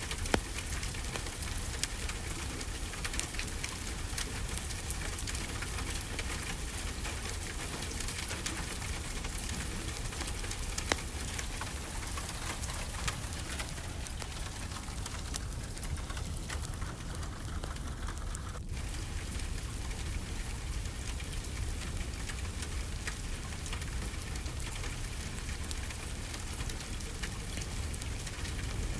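Steady rain falling on a surface, an even hiss with scattered sharp ticks and pops.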